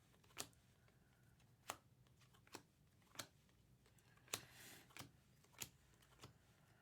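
Faint clicks of trading cards being flipped one at a time through a stack, about one a second at uneven spacing, with a brief brushing slide of card on card in the middle.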